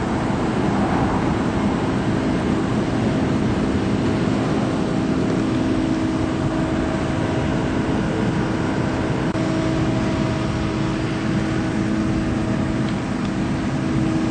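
Machinery running steadily: a constant drone with an unchanging hum tone under a rushing noise.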